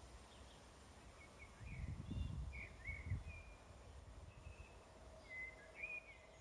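Small birds chirping and twittering in short, faint calls with quick pitch glides, with a low rumble for about a second and a half near the start.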